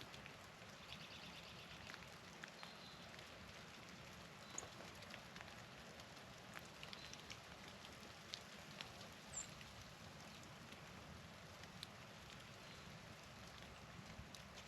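Faint outdoor ambience in snowy weather: a steady soft hiss with scattered light ticks and drips, a quick run of high chips about a second in, and a short high bird chirp about nine seconds in.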